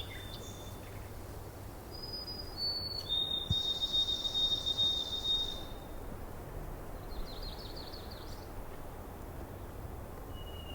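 Outdoor ambience with small birds calling: a few short high whistles, then one long steady high whistle lasting a few seconds, and a quick trill about seven seconds in, over a low steady background rumble.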